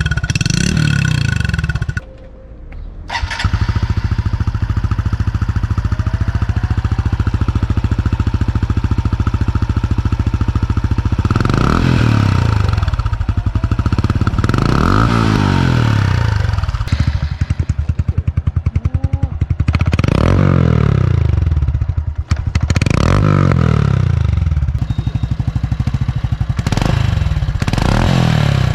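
Honda Cub motorcycle single-cylinder engines heard through their exhausts, in a muffler sound comparison. One bike idles; after a brief break about two seconds in, another idles steadily, then is revved up and let back down several times.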